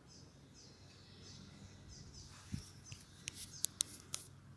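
Faint, distant bird chirps. In the second half come a soft thump and a few sharp clicks.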